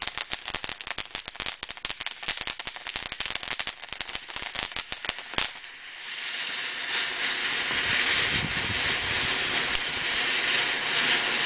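Consumer fireworks crackling in a rapid, dense string of pops, with a single sharp bang about five seconds in. After the bang comes a steady hiss, louder than the crackling.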